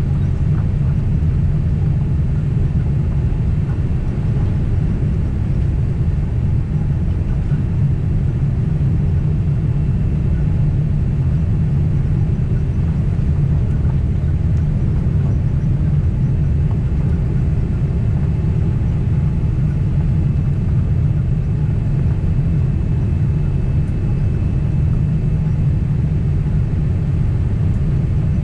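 Boeing 767 cabin noise from a window seat: a steady low rumble of engines and airframe, with a faint steady high whine over it.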